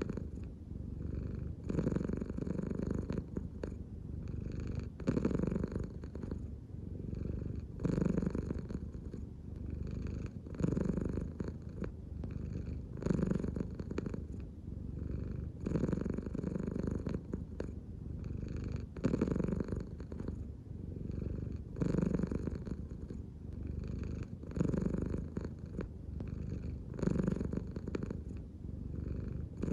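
American Shorthair cat purring continuously, the purr swelling and fading with each breath in and out, about every three seconds.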